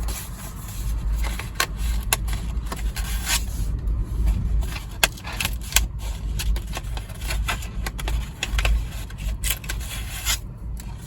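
Paper notebook inserts and their cover being handled: paper and card rubbing and sliding, with scattered light clicks and taps over a low rumble.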